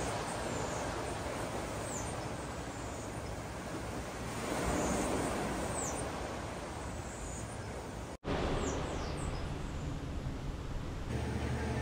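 Steady outdoor background noise with short, high, falling bird chirps now and then. The sound drops out for a moment about eight seconds in and then resumes.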